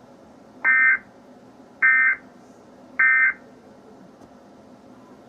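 Emergency Alert System end-of-message data bursts: three short, harsh digital chirps about a second apart, signalling that the tornado alert broadcast is over.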